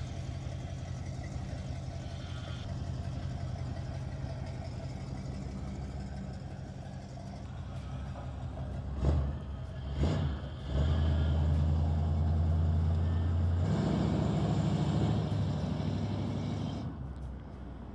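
1972 Chevrolet Monte Carlo's V8 engine running as the car drives around, with two short louder blips about nine and ten seconds in. It gets louder as the car passes close, then fades near the end.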